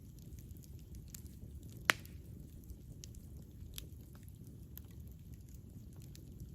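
Campfire burning with a low steady rumble and scattered wood crackles, and one sharp loud pop about two seconds in.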